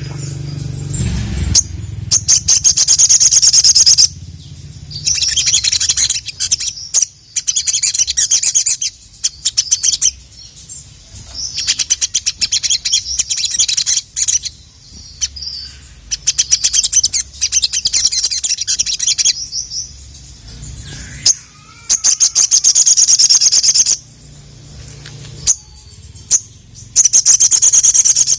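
Ruby-cheeked sunbird (sogon) singing: loud, high-pitched rapid trills of about two seconds each, repeated about every four to five seconds. Between the phrases come quick series of clicking chips.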